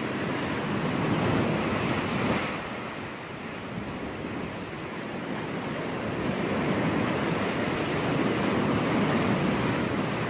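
Ocean surf: a steady rush of waves, swelling twice as breakers come in and easing between them.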